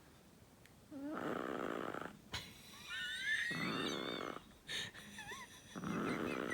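Sleeping chihuahua snoring: three snores about a second each, a couple of seconds apart, deep enough to pass for a grown man snoring.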